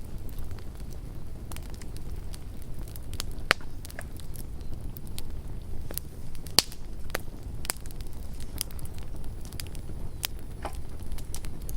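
Campfire burning: a low steady rumble under irregular sharp pops and crackles of burning wood, with two louder pops about three and a half and six and a half seconds in.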